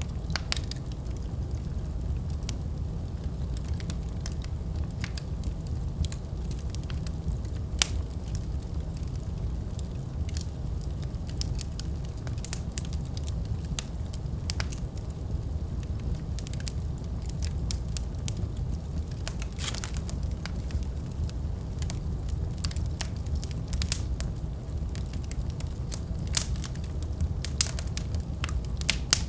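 Wood fire burning in a fireplace: a steady low rumble of the flames with frequent sharp crackles and pops, a few louder ones near the end.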